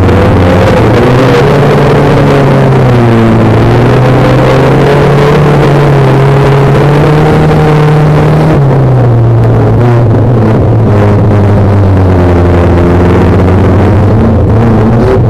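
Banger racing car's engine heard from inside the cabin, very loud and running hard, its pitch rising and falling as the throttle is worked, with a clear drop about eight seconds in. A rough, noisy rumble runs underneath it throughout.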